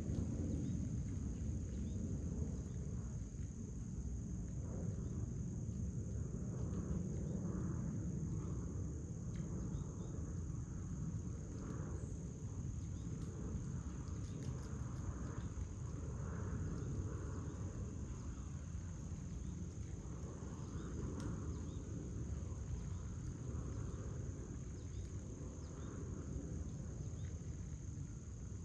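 Crickets trilling in a steady high continuous chorus, over a constant low outdoor rumble, with scattered faint short calls.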